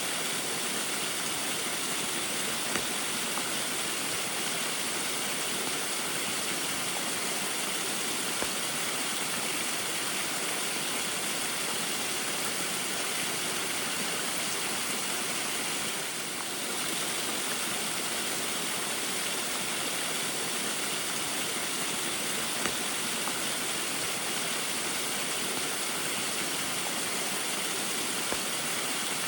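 Small waterfall in the rain: a steady, even rush of falling and splashing water, with a few faint ticks and a brief slight dip about halfway through.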